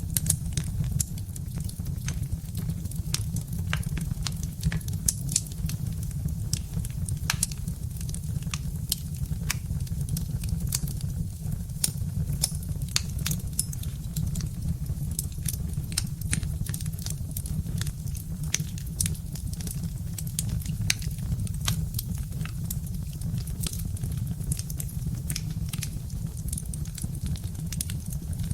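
Birch-wood fire crackling: many sharp, irregular pops and snaps over a steady low rumble of the burning fire.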